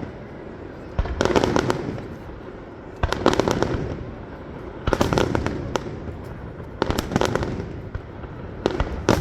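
Fireworks show: aerial shells going off about every two seconds, each burst followed by a short flurry of crackling.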